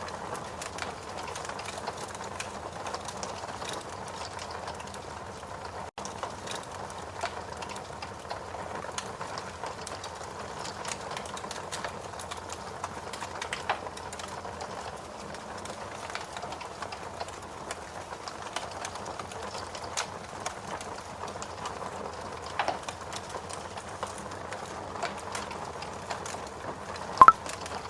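Steady rain mixed with a wood fire crackling in a fireplace, with scattered sharp pops and one louder pop near the end.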